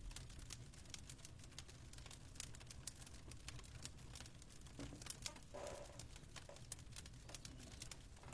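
Faint crackling of a wood fire: many small irregular snaps and pops over a low steady background hum.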